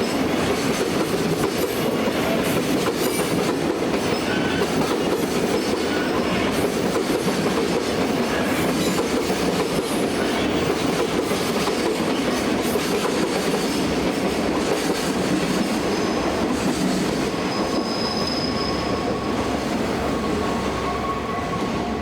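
Electric train passing close by, its wheels running over the rails in a steady, loud rumble that eases a little in the last few seconds, when a faint thin tone comes in.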